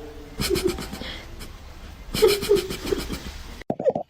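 A person laughing in two breathy bursts over a steady background hum, then an abrupt cut near the end to short pitched vocal sounds.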